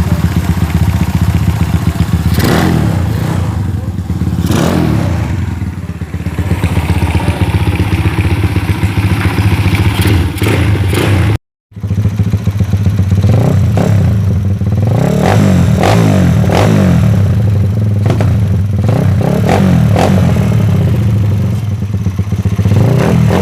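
Suzuki Smash's small single-cylinder four-stroke motorcycle engine idling and revved in short blips again and again, for an exhaust sound check. It cuts off abruptly about halfway through, then picks up again with more blips.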